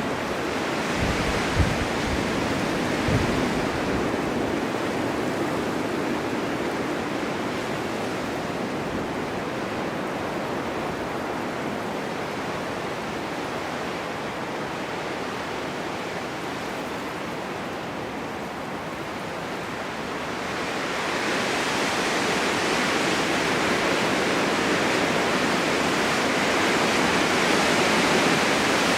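Blizzard wind driving snow: a steady rushing that eases a little, then swells into a stronger gust about two-thirds of the way through. Two brief low thumps in the first few seconds, wind buffeting the microphone.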